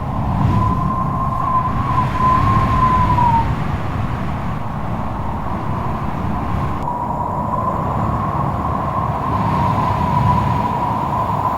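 Strong wind with a deep rumble and a high whistling howl that wavers in pitch. The howl drops away a few seconds in and comes back for the second half.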